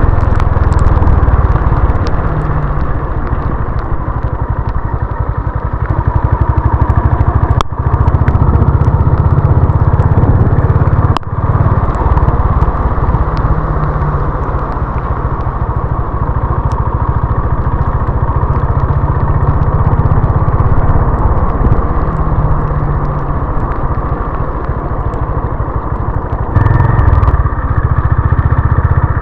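Honda CB350 RS's air-cooled single-cylinder engine running under way on the road, its exhaust pulsing steadily. There are two brief drops in sound, about 8 and 11 seconds in, where the throttle is shut for a moment, and the engine note shifts a few more times during the ride.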